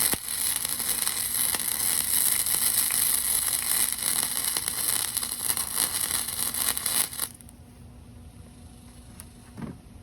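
Electric arc welding: a steady loud crackling hiss from the arc that stops abruptly about seven seconds in as the arc is broken, leaving a low steady hum.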